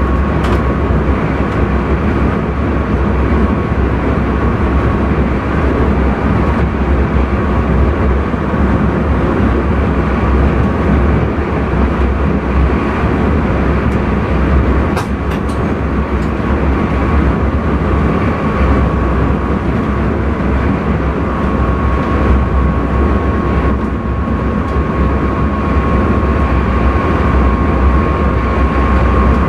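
Steady running noise of an intercity train, heard from inside the driver's cab, with a low rumble, a thin steady high tone, and a few short clicks about halfway through.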